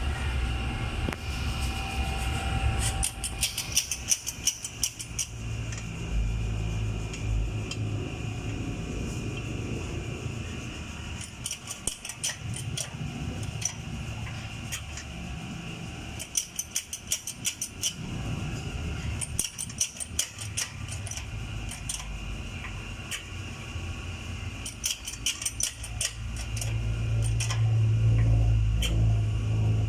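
Rim-straightening press working on the heated lip of a bent aluminium scooter mag wheel: a low steady hum with clusters of rapid metallic clicks that come back every several seconds as it is pressed.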